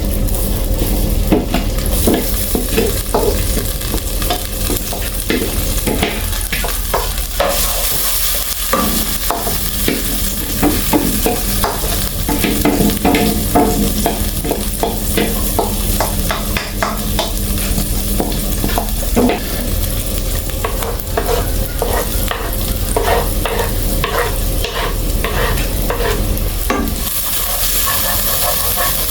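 Chopped seasonings, green bell pepper and scotch bonnet sizzling as they sauté in melted butter in a pot, stirred with a spoon that knocks and scrapes against the pot in many quick, irregular strokes.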